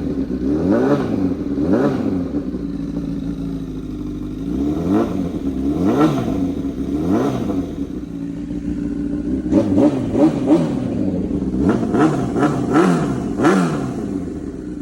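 2007 Honda CBR1000RR's inline-four engine through a straight-pipe exhaust, idling and revved in short throttle blips, each one rising and falling quickly in pitch. It settles to a steady idle for a couple of seconds, then the blips come more often from about ten seconds in.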